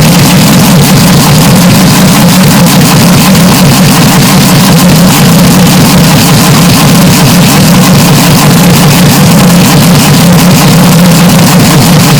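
Heavily distorted, clipped engine drone held at a steady pitch, with no rise or fall of a car passing.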